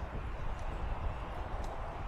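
Frogs calling in a continuous chorus over a steady low wind rumble, with a few faint short high clicks.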